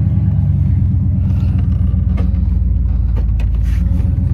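Rural King RK19 compact tractor engine running steadily under load as it backs up carrying logs, a low, even engine note with a few faint knocks and clicks over it.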